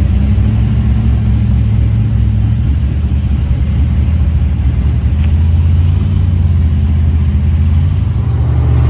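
Off-road vehicle's engine running steadily at low speed on the trail, its pitch dropping a little about five seconds in.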